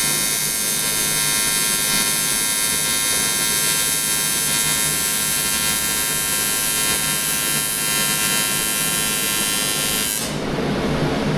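AC TIG welding arc on aluminium buzzing steadily, cutting off suddenly about ten seconds in as the arc is broken, leaving a steady rushing noise.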